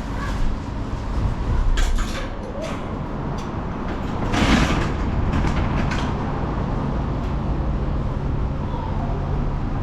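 An engine running steadily with a low hum, with a few sharp knocks and a brief rush of noise about four and a half seconds in.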